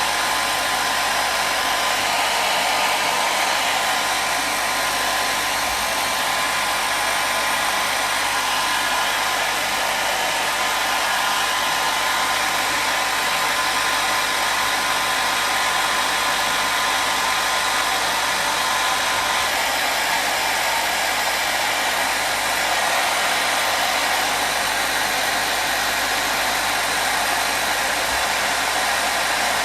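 Hair dryer running steadily: a constant rushing blow of air with a faint motor whine in it.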